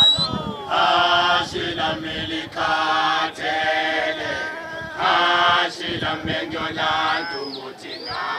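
A group of voices singing a chant-like song without instruments, in phrases of about a second with short breaks between them. Near the end come a few short, high calls that rise and fall.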